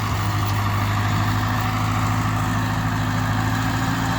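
A 1942 Ford 9N tractor's four-cylinder flathead engine running steadily in second gear, firing evenly now that its faulty points have been replaced.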